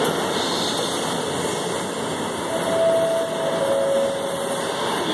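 Freight train of loaded log wagons rolling away along the track as a steady rumble, with a short faint high squeal about halfway through.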